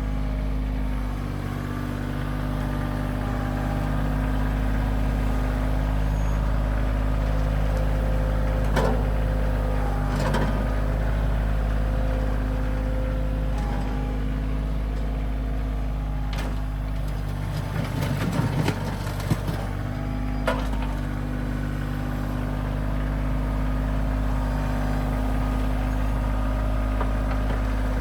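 Kioti CK2610 compact tractor's diesel engine running steadily while the tractor is driven over fresh backfill to pack it down, with a few sharp knocks and a rougher, clattering stretch about two-thirds of the way through.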